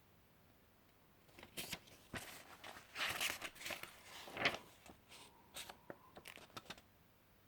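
Paper pages of a booklet being handled and turned: a run of rustles and crinkles starting about a second in and stopping near the end.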